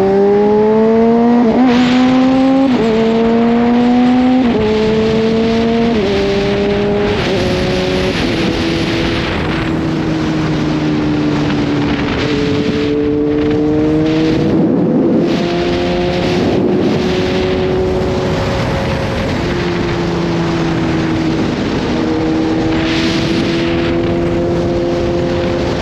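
Kawasaki Z H2's supercharged inline-four accelerating through several upshifts in the first seven seconds, its note climbing and then dropping at each shift. It then settles to a steady cruise with small rises and falls in revs, under a rush of wind.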